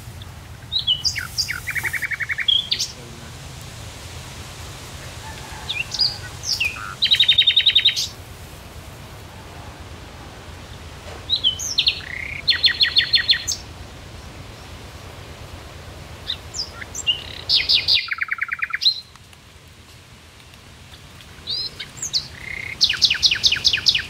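A songbird singing the same phrase over and over, about every five seconds: a few short high notes, then a quick trill. A steady low hum runs underneath.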